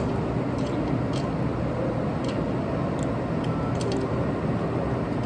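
Steady low rumble of background noise with a few faint short clicks.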